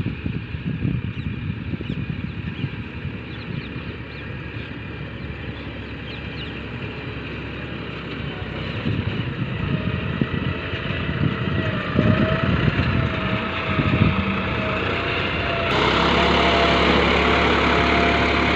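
John Deere four-wheel-drive tractor engine running with an uneven low rumble. Near the end the sound turns suddenly louder and steadier.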